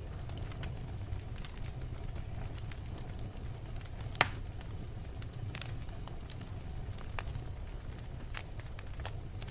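Wood fire in a fireplace burning with a steady low rumble and frequent small crackles, and one loud pop about four seconds in.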